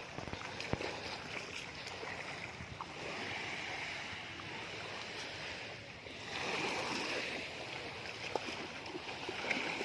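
Sea surf washing onto a beach: a steady rush of small waves that swells twice, about three seconds in and again past halfway.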